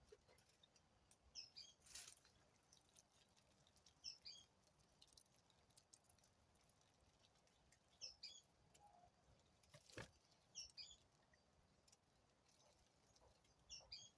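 A bird calling at intervals: five short phrases of quick high notes, each phrase stepping down in pitch, a few seconds apart. Two faint sharp clicks fall between them.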